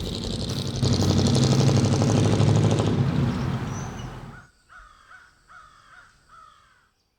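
A loud rushing noise with a low hum swells about a second in and fades out by the middle. It is followed by a crow cawing several times in a row, harsh calls each falling in pitch.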